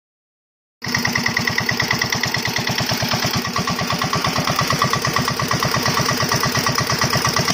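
Homemade diesel motorcycle's diesel engine running at a steady speed with an even, rapid beat, cutting in abruptly about a second in.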